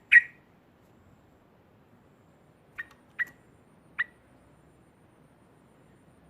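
Yellow-vented bulbul (trucukan) giving short, sharp call notes: one right at the start, then three more in quick succession about halfway through.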